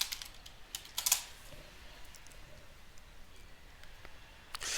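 A few computer keyboard keystrokes and clicks, clustered around the first second, then only sparse faint clicks.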